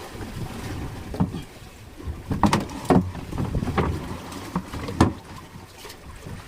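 Irregular knocks and thumps on a small wooden fishing boat, loudest a little over halfway through, over a steady low rumble of boat motor and wind.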